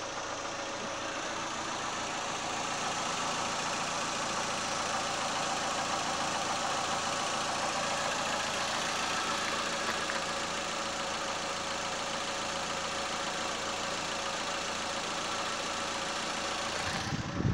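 2014 Suzuki S-Cross's 1.6-litre petrol four-cylinder engine idling steadily with the bonnet open.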